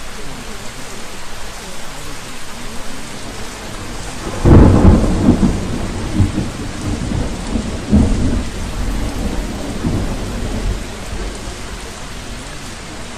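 Thunderstorm ambience: steady rain, with a roll of thunder that begins about four seconds in and rumbles on in several swells before fading.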